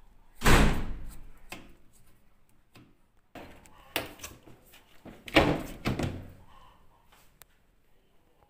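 Several loud thuds and knocks: one about half a second in, a lighter one near four seconds, and two close together around five and a half to six seconds, with small clicks between.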